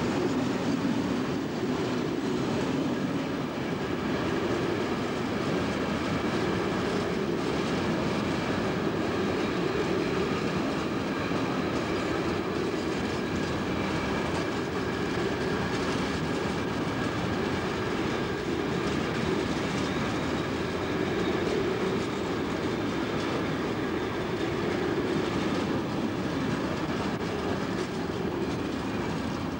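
Freight train wagons rolling past, their steel wheels running steadily on the rails.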